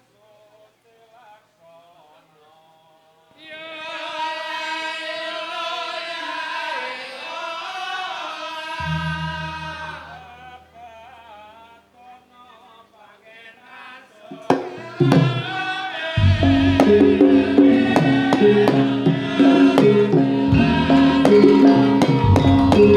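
Javanese gamelan music. A solo voice sings a long wavering phrase from about three seconds in, with a deep low note joining about nine seconds in. Then the full ensemble with drums comes in loudly after about fourteen seconds.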